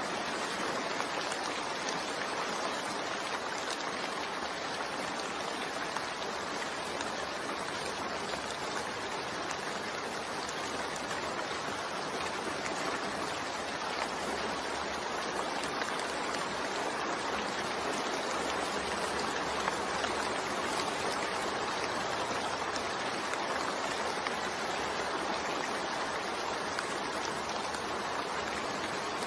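Steady rain falling: an even, unbroken hiss with fine scattered drop ticks.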